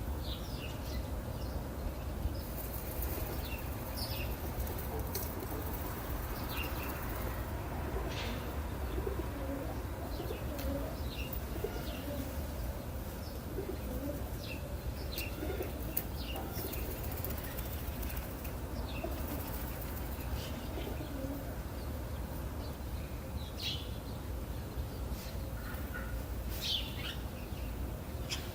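Birds calling outdoors: many short, scattered high chirps from several birds, with some lower calls in the middle, over a steady low rumble of background ambience.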